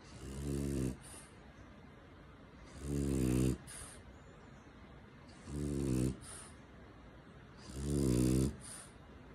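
French bulldog snoring in its sleep: four rasping snores about two and a half seconds apart, each followed by a short breathy hiss.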